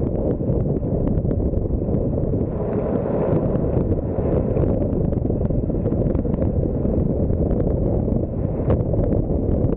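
Wind buffeting the microphone of a camera on a moving bicycle: a steady low rumble, with scattered small clicks through it.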